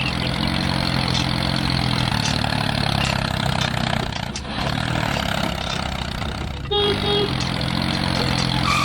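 Small engine of a DIY mini tractor running steadily. Its pitch dips and comes back up twice, the second time right after a sudden break about seven seconds in.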